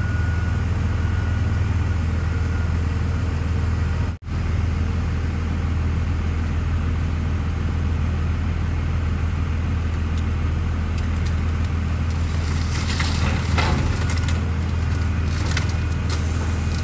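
Heavy machine engine running steadily while crushed car bundles are pulled apart, with bursts of crunching, scraping metal partway through. The sound cuts out for a moment about four seconds in.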